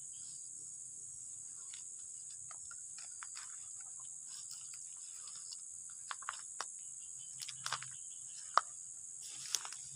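Crickets chirring in a steady high-pitched drone, with scattered light clicks and snaps that become sharper and more frequent in the last few seconds.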